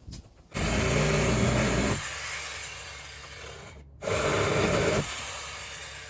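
A power saw cutting into the wooden planks of a truck's grain box in two short bursts, each about a second or so long, the noise trailing off after each.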